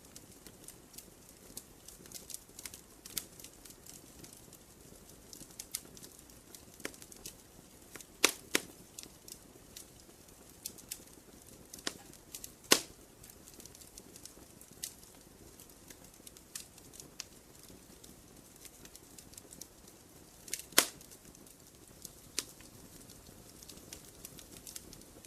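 Wood campfire crackling: irregular sharp snaps and pops over a soft steady rush of burning, with three louder pops about 8, 13 and 21 seconds in.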